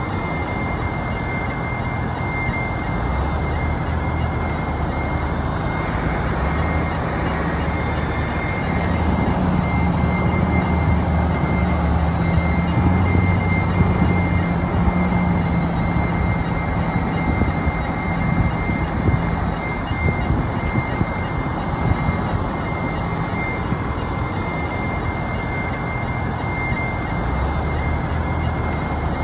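Bulldozer's diesel engine running and working, pulling harder for several seconds midway, with a thin, steady high whine throughout.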